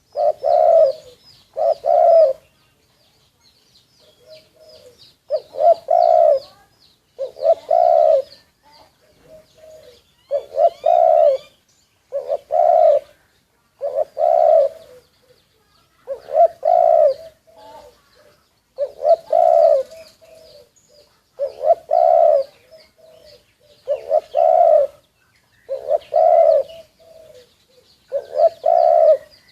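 Spotted doves cooing over and over, each phrase about two seconds apart. Faint high chirps of smaller birds come in between the phrases.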